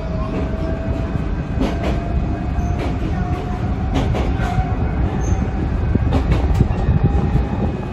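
Electric commuter train running on its rails, heard from inside the driver's cab: a steady rumble with irregular clicks as the wheels cross rail joints, and a faint whine slowly rising in pitch.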